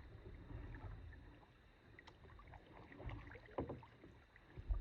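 Kayak paddling on calm water: soft splashes and drips from the paddle blades, with a low rumble underneath and a thump near the end.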